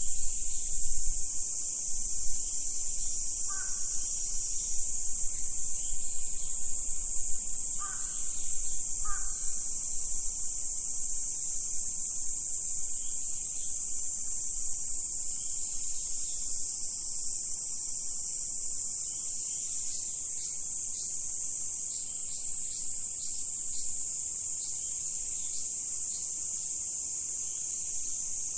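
A steady, high-pitched chorus of insects calling. Three short lower calls come about four and eight to nine seconds in, and a run of quick, high bird chirps comes in the second half.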